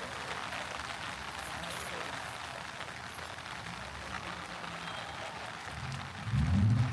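Steady rain falling on the street. About six seconds in, a louder low-pitched sound sets in over the rain.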